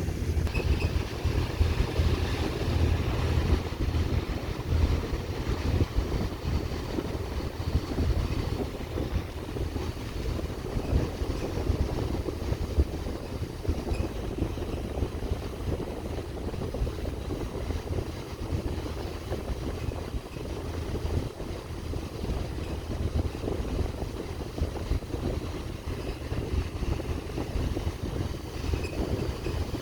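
Fast passenger boat underway, a steady low engine rumble with wind buffeting the microphone.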